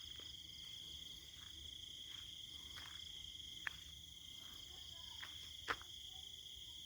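Steady high-pitched night insect chirring, typical of crickets, with two short sharp clicks about halfway through and near the end.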